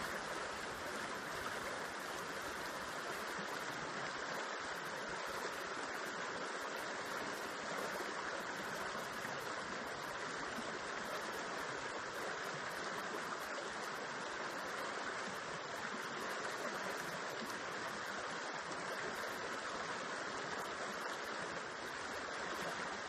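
River water spilling over rocks into a pool, a steady, even rushing.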